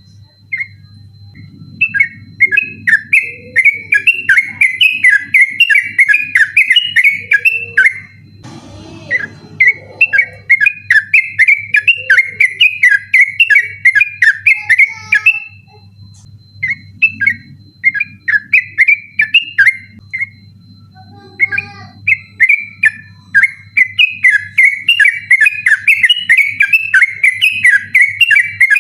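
Yellow-vented bulbul (trucukan) singing its fast, insistent rolling song: long runs of quick chattering notes, broken by a few short pauses. A steady low hum runs underneath.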